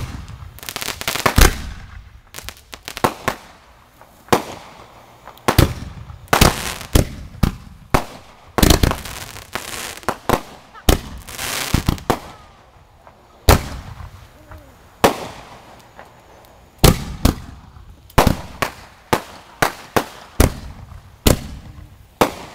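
Amateur consumer fireworks going off close by: a long, irregular string of sharp bangs and crackling reports, densest around the middle.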